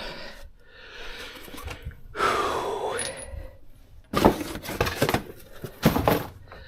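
Metal tools and parts clinking and knocking during brake work: a short scrape about two seconds in, then sharp metallic knocks about four and six seconds in.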